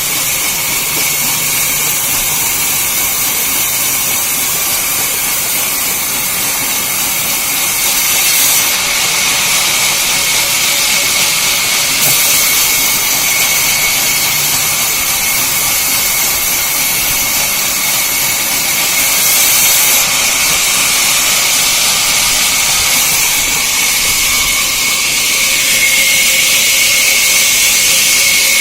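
Sawmill saw running, a steady hiss with a constant high whine underneath.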